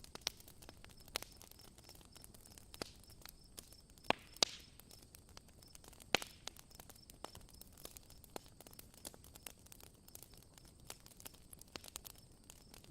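Campfire crackling: irregular sharp pops and snaps over a soft hiss, with the loudest pops a little after four seconds and about six seconds in.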